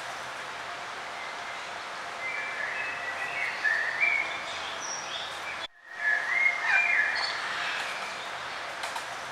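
Songbirds chirping in short gliding phrases over a steady outdoor hiss. The sound cuts out for a split second just after the middle, then the chirping resumes.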